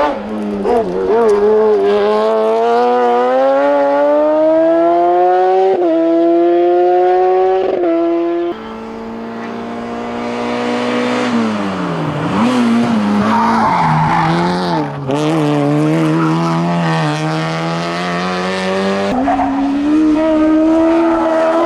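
Hillclimb race car engine at full throttle, the pitch climbing through the gears with sharp drops at each upshift. Midway it drops away under braking and downshifts, with a short squeal of tyres, then the engine climbs again as the car accelerates out.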